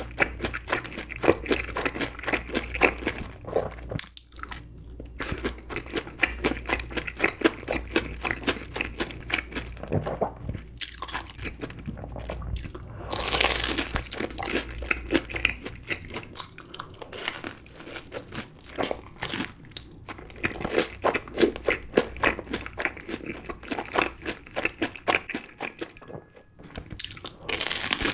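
Close-miked crunching and chewing of a crumb-coated corn dog covered in cheddar cheese sauce, a rapid run of crisp crunches. A fresh bite comes about halfway through and another near the end.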